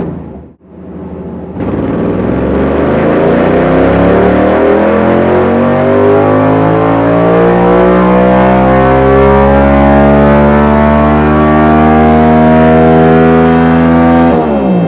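Yamaha MT-07's parallel-twin engine running through a Dominator HP8 full exhaust system, pulling hard on a dyno. After a brief cut just after the start, the revs climb in one long, steady rise in pitch for about twelve seconds. Near the end the throttle shuts and the revs fall away sharply.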